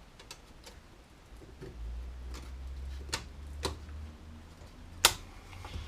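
Sharp metallic clicks and taps, about half a dozen spread over several seconds with the loudest about five seconds in, as a circlip is worked into its groove to hold a new rear wheel bearing in the hub. A low hum runs beneath from about two seconds in.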